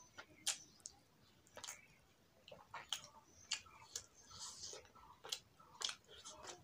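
Faint chewing and lip smacking while eating rice and fish by hand: sharp, irregularly spaced wet mouth clicks, about one every second or less.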